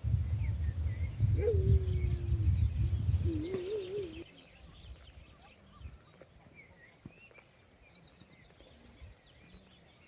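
Sheep bleating twice: a call falling in pitch, then a shorter wavering one, over a loud low rumble. The rumble cuts off suddenly about four seconds in, leaving faint bird chirps.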